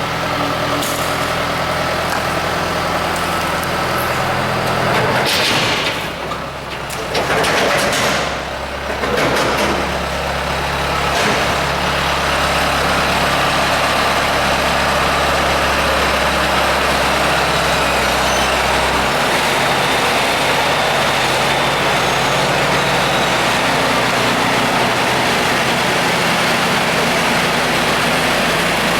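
A vehicle engine running steadily, with its low note shifting to a new level a few times.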